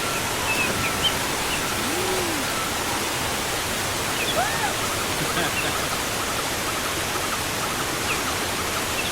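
River waterfall with a steady rush of falling water, and a few faint chirping calls heard over it now and then.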